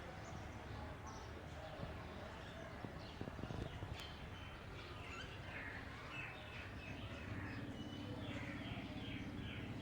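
Several caged birds chirping and twittering in short repeated calls, growing busier from about halfway in, over a steady background din.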